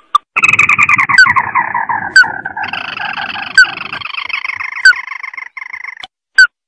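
Crake (burung tikusan mata merah) call played as a bird lure: a long, rapid trill that slowly falls in pitch, steps up about two and a half seconds in, and fades out near the end. Short sharp notes sound about every second and a quarter over it.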